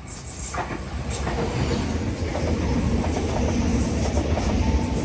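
A train running along the line: a steady rumble of wheels on rails that builds over the first second and then holds, with faint repeated clicks.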